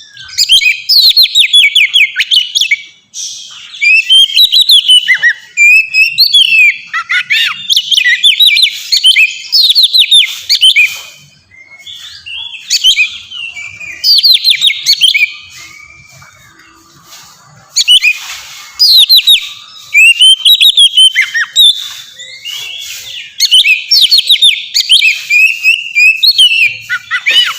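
Oriental magpie-robin (kacer) singing loudly in full song: phrases of rapid, sliding, whistled and chattering notes, broken by short pauses.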